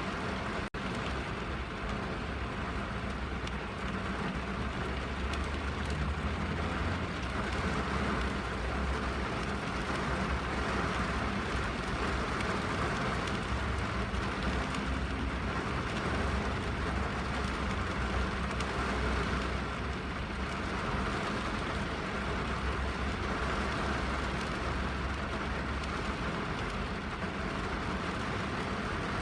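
Steady rain drumming on a car's roof and windows, heard from inside the cabin, with a low rumble under the even patter. There is a momentary dropout less than a second in.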